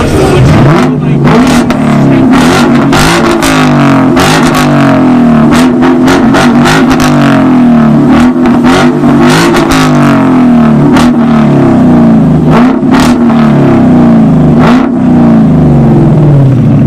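Car engine revved again and again, its pitch rising and falling, loud enough to overload the recording, with sharp cracks throughout.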